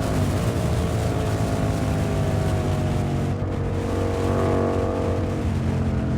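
Yamaha MT-07 parallel-twin engine through an SC Project aftermarket exhaust, running steadily at cruising speed with its note drifting slowly lower, a small rise partway through, over wind rushing past the microphone.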